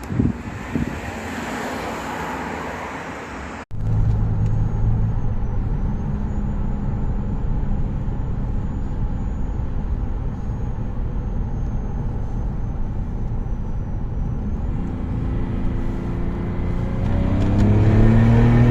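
BMW M57 3.0-litre straight-six turbodiesel with a big Garrett G25 hybrid turbo, running with road noise under way. It drones steadily for most of the stretch, then rises in pitch and grows louder near the end as it pulls harder.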